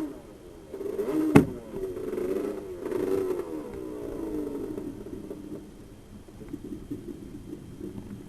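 Twin 250cc superkart engine revving up and down, then winding down with falling pitch, with one sharp knock about a second and a half in.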